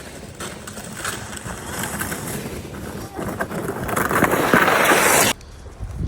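A sled sliding down a hill over crunchy snow: a scraping hiss that grows louder as it picks up speed, then cuts off suddenly about five seconds in.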